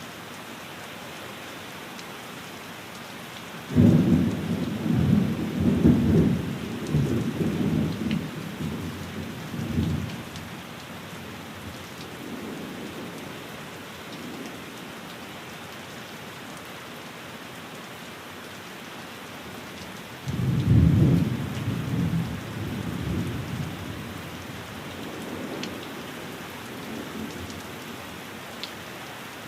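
Steady rain falling on a window, with two rolls of thunder. The first breaks suddenly about four seconds in and rumbles in waves for about six seconds. The second breaks about twenty seconds in and fades out over several seconds.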